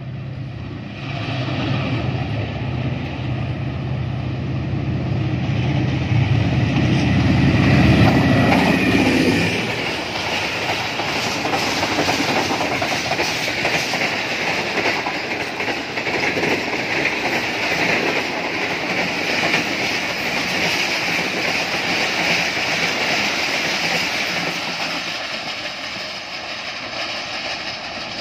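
Pakistan Railways Tezgam express passing at speed. The ZCU diesel-electric locomotive's engine drone grows louder, peaks about eight or nine seconds in and drops away as it goes by. Then comes the rush and clickety-clack of the coaches, slowly fading as the train recedes.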